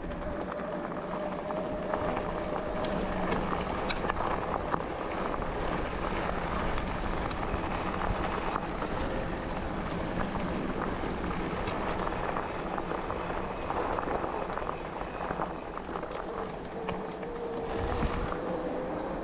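Riding a bike along a forest track: tyre noise and rattling clicks over a rough path, with wind on the microphone. A thin steady whine, likely from an e-bike's drive motor, sits under it near the start and again near the end.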